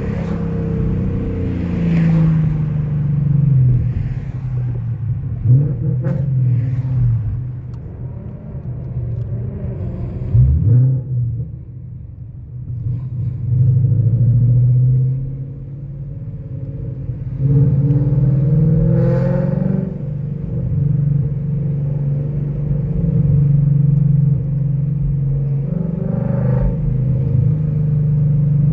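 2017 Ford Mustang GT's 5.0 V8, fitted with catless long-tube headers and a Corsa exhaust, heard from inside the cabin while driving. It revs up and falls back several times as the manual gearbox is shifted.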